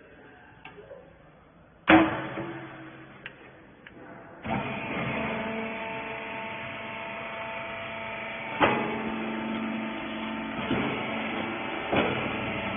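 Wiper horizontal bagging baler: a loud metallic clank about two seconds in, then from about four and a half seconds the machine running with a steady mechanical hum, with further sharp clanks three times.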